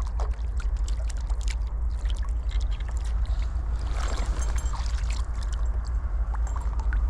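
Flowing river water with a steady low rumble, and many small scattered splashes and clicks on top.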